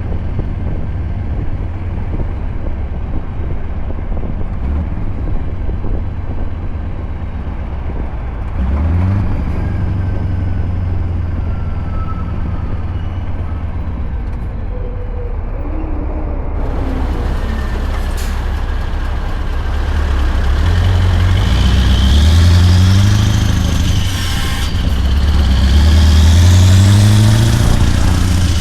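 Scania R580 V8 diesel truck engine with a straight-piped exhaust running steadily under way. In the last third its pitch climbs, dips briefly as at a gear change, then climbs again as the truck accelerates.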